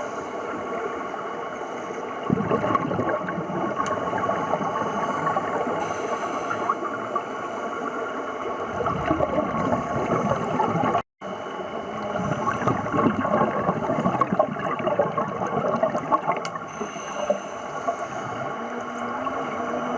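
Underwater sound of scuba divers breathing: bubbles from their regulators crackling and gurgling over a steady water hiss, with a brief dropout about halfway through.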